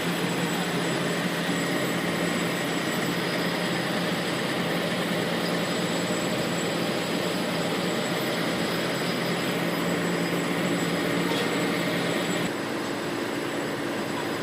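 A large engine running steadily, with a steady drone that becomes slightly quieter and changes tone about twelve and a half seconds in.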